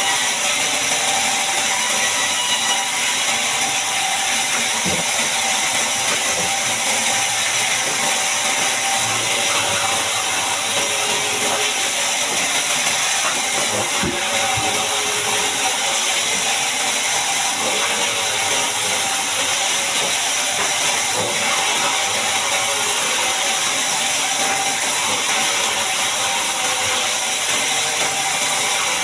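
Log bandsaw mill running steadily: a constant, even machine noise, most of it high-pitched, with no stops or changes.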